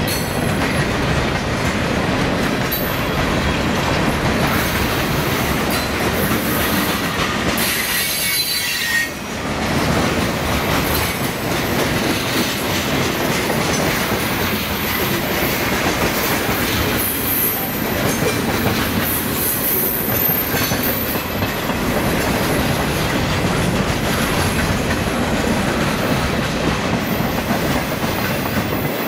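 Freight cars of a passing train rolling by close: steel wheels running over the rails with a steady clatter and a high wheel squeal at times, easing briefly about nine seconds in.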